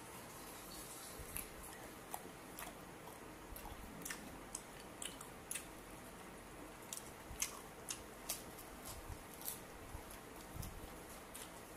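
Mouth sounds of chewing grilled pork barbecue bitten off a skewer: faint, irregular wet smacks and sharp clicks.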